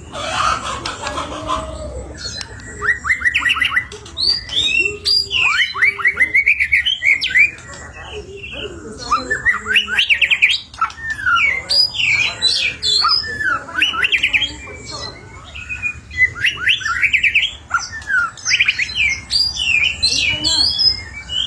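White-rumped shama (murai batu) singing persistently in long, varied phrases: quick runs of rising whistled notes, trills and harsher notes. This is the kind of full song played as a lure to get other songbirds singing.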